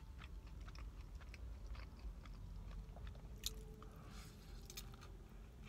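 Close-up chewing and biting of cold leftover deep-dish pizza crust: a run of small mouth clicks and light crunches, with one sharper click about three and a half seconds in.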